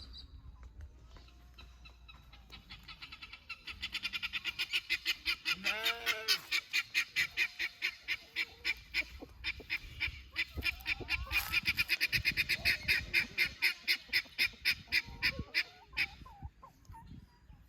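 Birds calling in a long run of rapid, evenly repeated notes, about four a second, building up a few seconds in and stopping near the end, with a few swooping honk-like notes mixed in.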